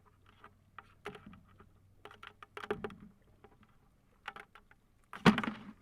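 Scattered clicks and knocks of a crab trap and crabs being handled, with one louder knock about five seconds in.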